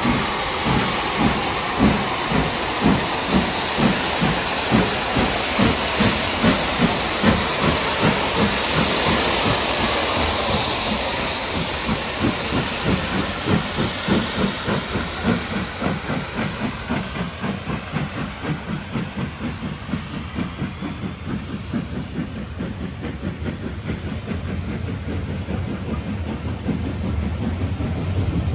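A train passing at speed: a regular rhythm of beats, about two a second at first and closer together later, under a hissing rush that swells and then fades away.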